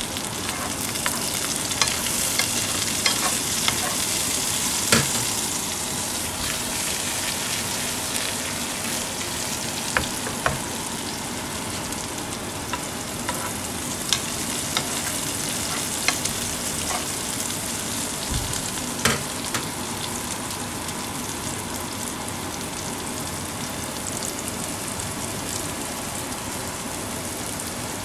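Sliced bitter melon, garlic and onion sizzling steadily in a frying pan as it is stir-fried, with a metal spoon clicking and scraping against the pan now and then. The sizzle is a little louder in the first few seconds.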